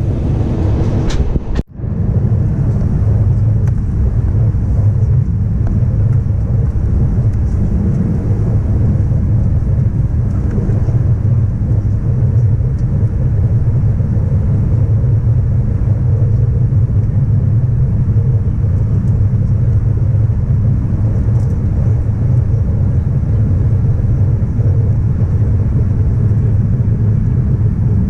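Steady low rumble inside the cabin of an Air France Airbus A319 around landing, with a brief cut-out just under two seconds in.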